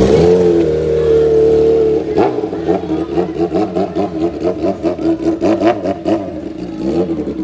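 A vehicle engine held at a steady high pitch, then revved in quick repeated blips, about five a second, for several seconds.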